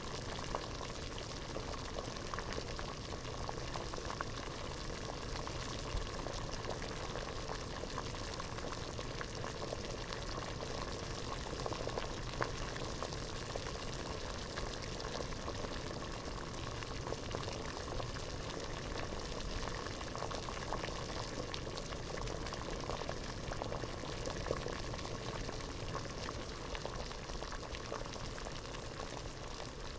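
Water boiling steadily in a pot: a continuous dense bubbling with many small pops.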